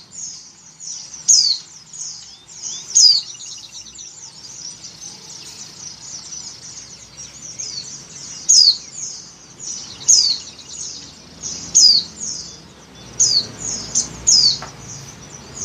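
White-eye (pleci) calling: a steady stream of thin, high chirps broken every second or two by a louder call that slides downward. It is the call of a female in breeding condition, used to call in males.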